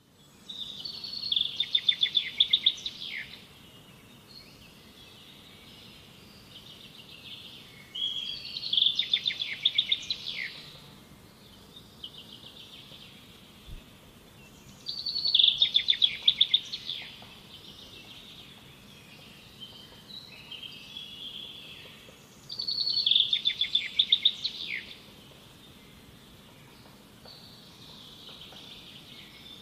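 A bird singing: a loud phrase of rapid chirps, each about two to three seconds long, repeated four times about seven seconds apart, with softer calls in between.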